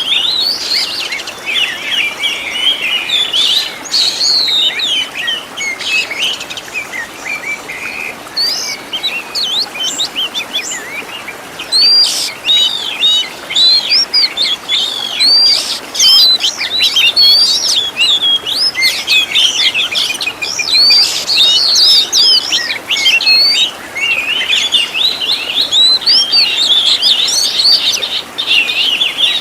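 Oriental magpie-robin (kacer) singing a fast, unbroken medley of whistles, chirps and trills packed with learned mimicked phrases and rapid 'tembakan' bursts. It grows louder and busier about twelve seconds in.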